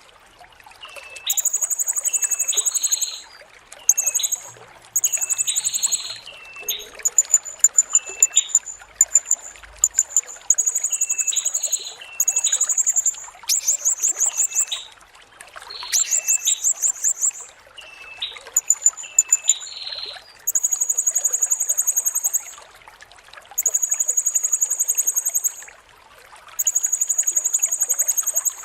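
Blue-crowned hanging parrot (serindit) singing: very high, shrill, buzzy notes a second or two long, repeated every two to three seconds, with short rapid trills and brief hooked chirps between them. A steady hiss like trickling water runs underneath.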